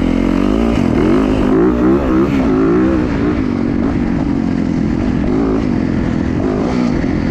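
Yamaha WR450F's single-cylinder four-stroke engine revving under riding, its pitch rising and falling repeatedly for the first three seconds or so, then holding steadier.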